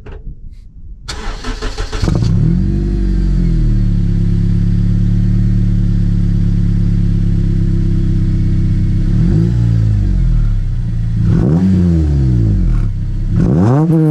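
Honda K20 inline-four engine with a Morimori-kan titanium exhaust cranking and starting about two seconds in, flaring briefly, then settling into a steady idle. From about nine seconds in it is blipped with the throttle several times, revs rising and falling quickly, with the blips coming faster near the end.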